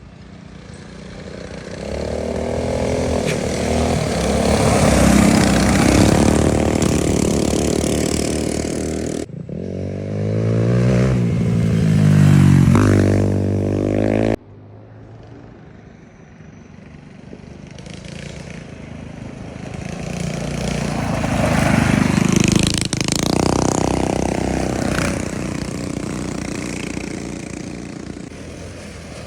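Small minibike engines running: one bike comes up, passes and fades, and then, after an abrupt break, an engine revs up with rising pitch. After another abrupt break a second bike builds up, passes and dies away.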